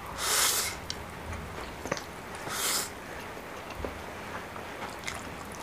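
Two short, sharp sucking intakes of air through the mouth while eating very spicy noodles, near the start and about two and a half seconds in, with a few faint clicks of eating in between.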